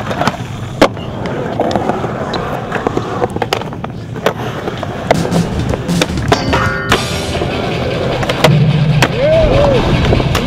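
Skateboard wheels rolling, with sharp clacks of the board hitting down scattered throughout, over background music.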